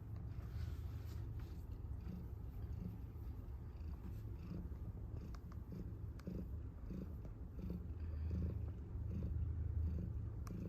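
A cat purring steadily, a low continuous purr that grows a little louder near the end.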